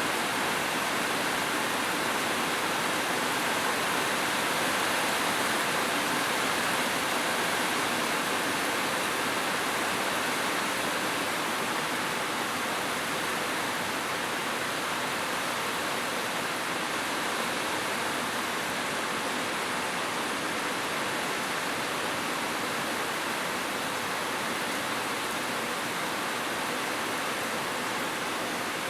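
Heavy rain falling on a roof, a dense, steady hiss.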